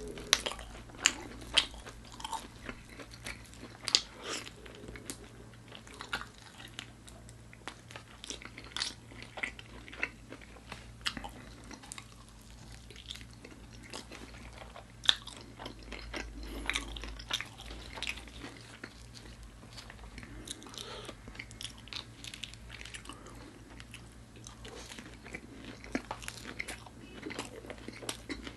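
Crunching bites and chewing of crispy Gochu Basasak chili-coated chicken, eaten close to the microphone, with sharp crunches at irregular intervals, the loudest about 4 and 15 seconds in.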